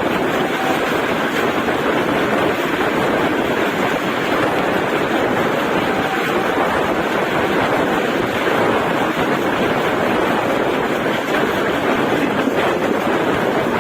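Steady, loud rushing noise of a moving passenger express train running on the rails.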